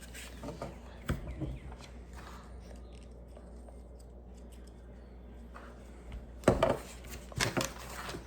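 Plastic Lego pieces being handled and pressed together: scattered clicks and clacks, a couple early and a louder cluster about six and a half to seven and a half seconds in.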